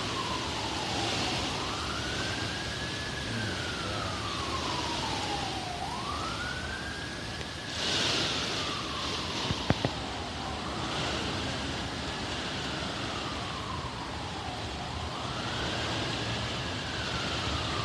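Emergency vehicle siren on a slow wail, rising quickly in pitch and falling more slowly about every four and a half seconds, over a steady background hiss. A sharp click sounds just under ten seconds in.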